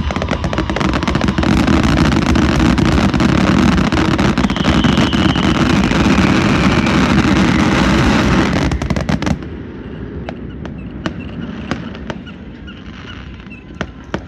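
Fireworks going off in a dense, continuous crackle of rapid bangs that stops abruptly about nine seconds in, followed by a few scattered pops.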